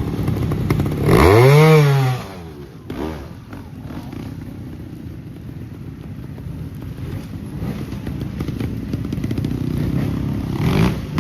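Trials motorcycle engine ticking over, with a sharp throttle blip about a second in, the revs shooting up and dropping back within a second. A shorter rev follows near the end.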